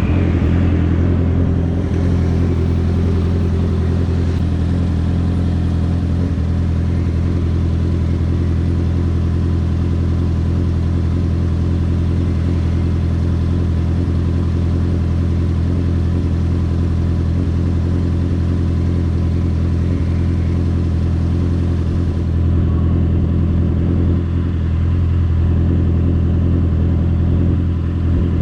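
Honda CBR650R's inline-four engine running at a steady, unchanging engine speed, with its exhaust note holding level throughout.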